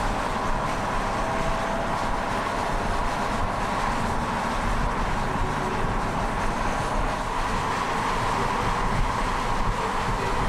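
A car driving at a steady pace: continuous engine and road noise with no sharp changes.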